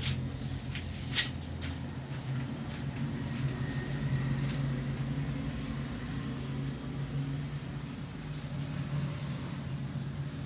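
Steady low mechanical hum, with a few sharp clicks in the first second or so and faint short high chirps now and then.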